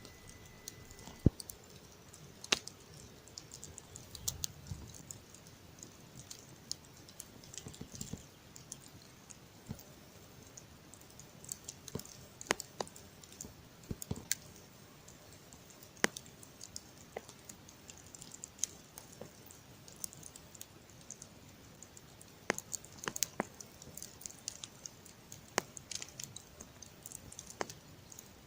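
Wood campfire crackling: irregular sharp pops and snaps, some in quick clusters, over a faint steady hiss.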